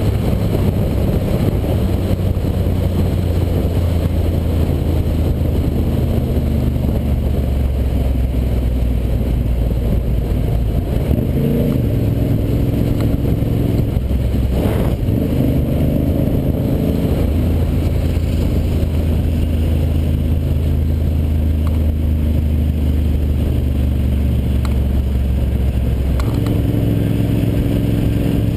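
A Ducati Monster 800's air-cooled V-twin engine running as the bike cruises on the road, a steady low rumble. Its pitch shifts as the throttle changes, about 12 seconds in and again near the end.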